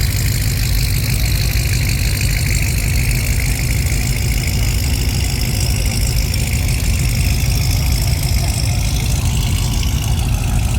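Big truck's engine idling steadily, a deep low rumble with a faint high whine that drifts slowly in pitch.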